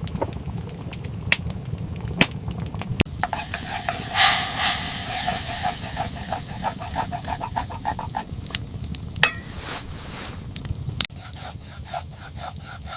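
Cooking sounds: a few sharp utensil knocks, then a burst of sizzling about four seconds in that fades over several seconds, with rapid light ticking and clatter, as food cooks in a pan.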